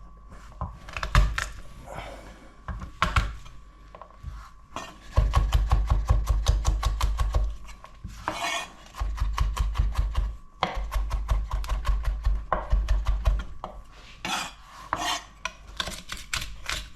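Knife rapidly chopping garlic on a cutting board, fast even knocks in long runs through the middle, mincing the garlic toward a purée.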